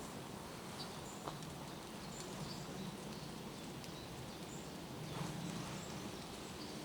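Steady rain falling through forest, with faint short high chirps of small birds repeating over it and one light tap about a second in.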